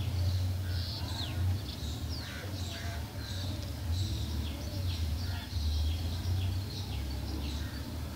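Small birds chirping in many short, high calls, some sliding down in pitch, over a steady low rumble.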